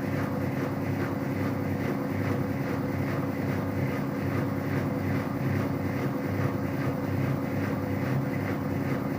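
Whirlpool FCSR90425 front-loading washing machine spinning at 600 rpm with an unbalanced load: a steady motor and drum hum with a fast, regular pulsing beat from the off-balance drum.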